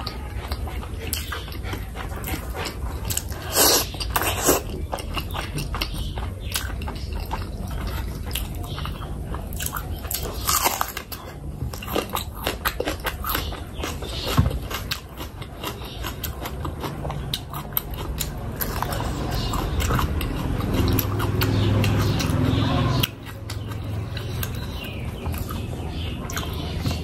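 Close-miked chewing and wet lip-smacking from a person eating oily fish curry by hand, with many small clicks and a few louder bites. Near the end a louder, denser stretch of eating noise cuts off suddenly.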